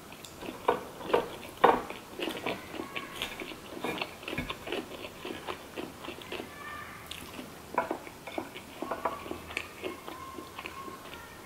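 A person chewing a mouthful of fried, battered sushi roll close to the microphone: irregular soft wet mouth smacks and small crunches.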